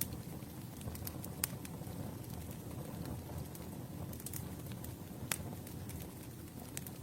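Campfire burning: a steady low rumble of flames with scattered crackles and sharp pops of wood, two louder pops about a second and a half in and a little past five seconds.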